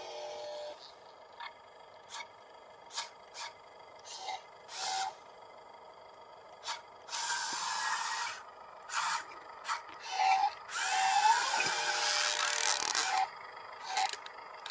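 Small electric motors of a remote-control toy excavator whining in short bursts, several rising in pitch, among sharp clicks and two longer stretches of grinding, scraping noise as the machine works against the ground. The excavator is straining: it is too weak to dig up the grass.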